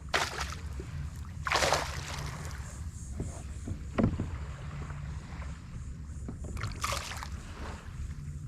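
Kayak on open water: a few short swishes of water, likely paddle or hull splashes, and a single knock about four seconds in, over a steady low wind rumble on the microphone.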